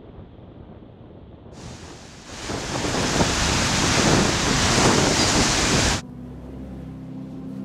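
Strong onshore wind and waves breaking on a lake shore, with wind buffeting the microphone, swelling in about a second and a half in and cut off abruptly about six seconds in. A low sustained music drone follows near the end.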